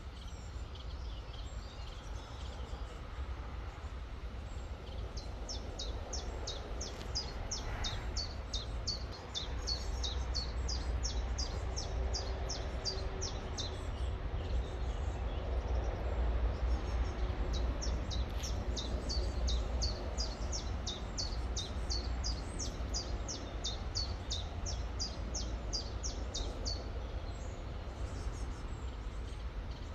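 A songbird repeats a fast series of short, high, downward-sliding chirps, several a second, in two long runs with a pause between them. A steady low rumble runs underneath.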